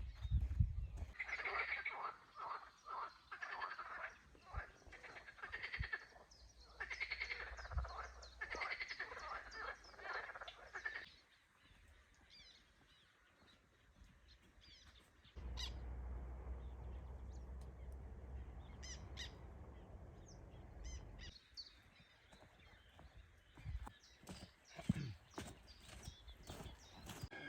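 Outdoor animal calls: a dense chorus of croaks and chirps for about the first ten seconds, then after a quiet gap a steady low rumble, and scattered chirps near the end.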